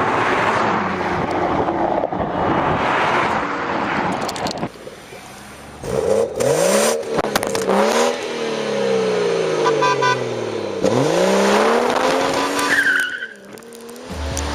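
Car tyres squealing for about the first four seconds, then a car engine revved several times, its pitch shooting up and falling back slowly after each blip.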